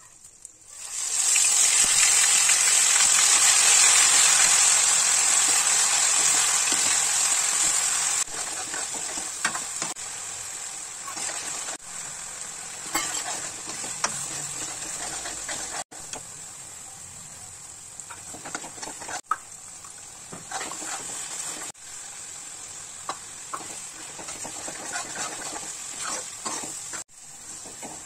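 Hot oil in an iron kadhai breaks into a loud sizzle about a second in as ingredients go in, then settles to a quieter frying hiss. A metal spoon stirs and scrapes the masala against the pan, making frequent short clicks, and the sound cuts off abruptly a few times.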